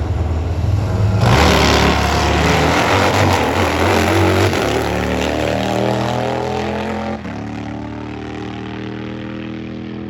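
Drag-racing motorcycle engines launching hard at full throttle, loud, with the engine note stepping abruptly a couple of times as it runs down the strip, then settling lower and quieter.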